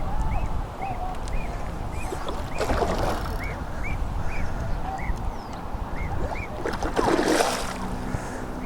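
A bird calling with a run of short, evenly spaced chirps, about two a second, that stops about six and a half seconds in, over low wind rumble on the microphone. Two brief louder rustles break in, one about three seconds in and one near the end.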